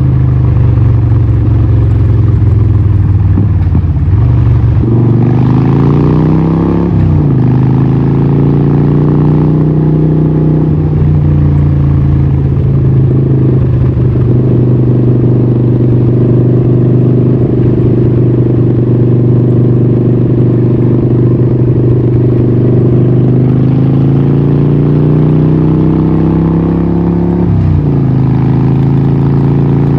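Harley-Davidson 1200 Nightster's Evolution V-twin running loud through a Vance & Hines exhaust, holding a steady pitch for long stretches. Its pitch drops and climbs a few times, with a quick rise and sharp drop about seven seconds in and a slow climb cut off by a sharp drop near the end, like revving and gear changes.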